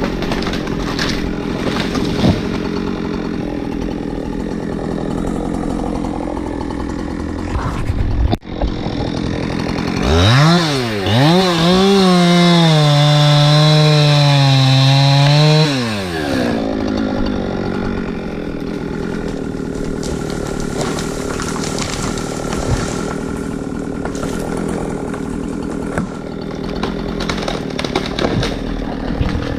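Chainsaw engine running steadily, then revved up to full throttle about ten seconds in. It holds a high, slightly wavering note for about six seconds, then drops back to a lower running speed.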